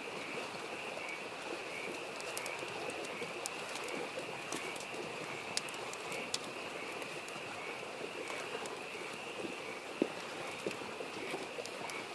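Wood campfire crackling with scattered sharp pops, the loudest about ten seconds in, over a babbling mountain stream and a steady pulsing chorus of frogs.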